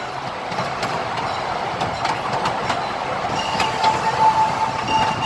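Miniature park train rolling along its track: a steady rolling rumble with scattered wheel clicks. About three and a half seconds in, a steady high-pitched squeal joins and holds.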